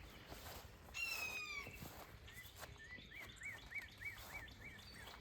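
Birds calling. A blue jay gives one harsh, slightly falling hawk-like call about a second in. Then a run of short, evenly repeated whistled notes follows, about three a second.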